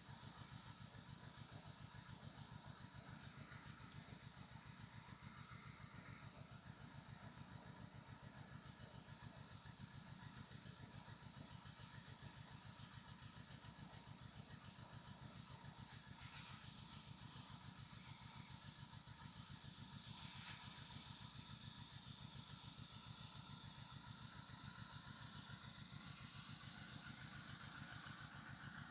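Small engine-driven crop sprayer running steadily, with the hiss of the spray over the engine. The hiss grows louder about two-thirds of the way through and drops off suddenly near the end.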